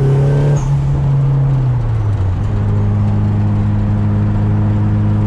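Nissan Silvia S14's engine running at about 84 km/h, heard from inside the cabin. Its note drops in pitch about two seconds in, then holds steady.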